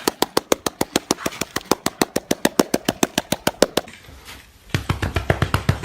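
A rapid, even run of sharp clicks, about eight a second, stopping about four seconds in. After a brief pause a second run of clicks with a deeper thud starts.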